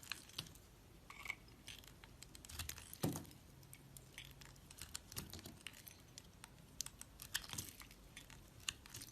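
A knife cutting into a bar of dry soap, with irregular crisp crackles and clicks and one louder knock about three seconds in.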